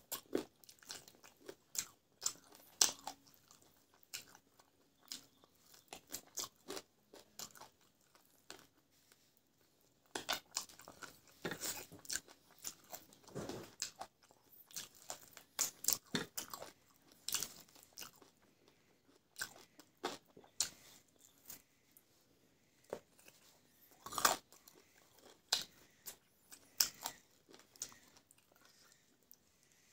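Close-miked eating sounds: a person biting and chewing a chicken leg and rice by hand, with irregular wet smacks and crunches and a few short pauses.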